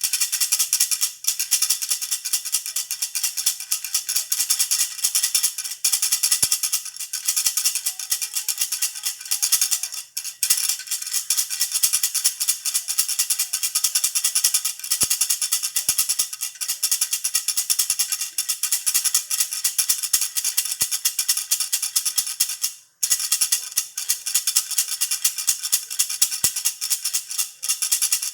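Baby rattle (jhunjhuna) shaken continuously, a dense fast high-pitched rattling with a brief pause about 23 seconds in.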